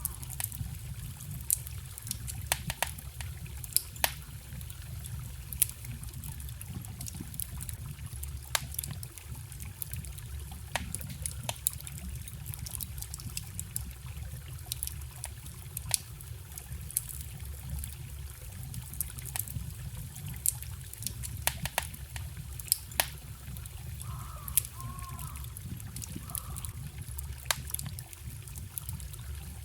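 Wood fire crackling, with sharp pops scattered irregularly throughout, over the steady trickle of a small forest stream.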